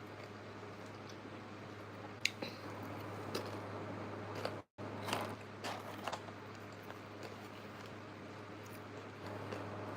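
Close-miked eating: chewing, with a handful of short crisp crunches over a steady low hum. The sound cuts out completely for a moment just before the middle.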